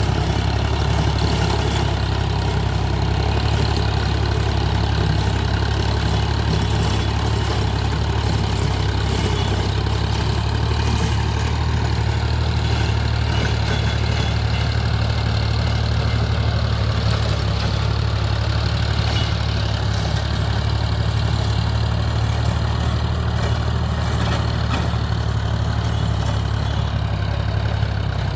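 Sonalika DI-35 tractor's diesel engine running at an unchanging speed, a deep, even drone.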